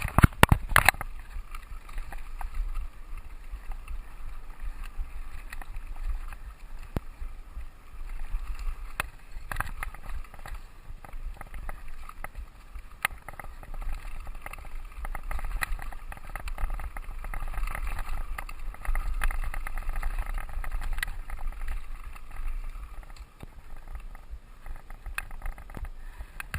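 Mountain bike ridden over a dirt trail: steady tyre and frame noise over a low rumble, broken by many sharp clicks, knocks and rattles from the bike jolting over roots and rocks. The loudest knocks come right at the start.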